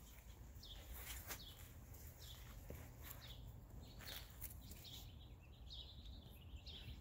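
Songbirds chirping faintly: short, downward-sweeping chirps repeated about twice a second, over a steady low rumble.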